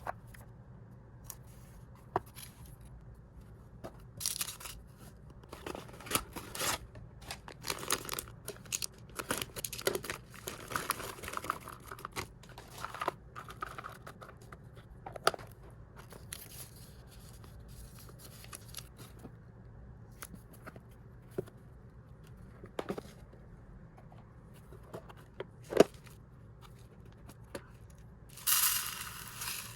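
Plastic snack packaging rustling and being torn open, with scattered light clicks and knocks, as hamster treats are unpacked into storage containers. The rustling comes in clusters, with a louder burst near the end.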